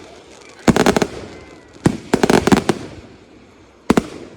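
Consumer fireworks going off in quick groups of sharp bangs: a rapid cluster about a second in, a single report and another rapid cluster around two seconds in, and a pair of bangs near the end.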